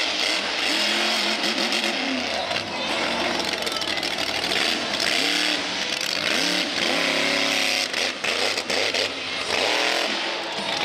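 Monster truck engine revving. Its pitch climbs and drops several times over a dense, loud exhaust noise.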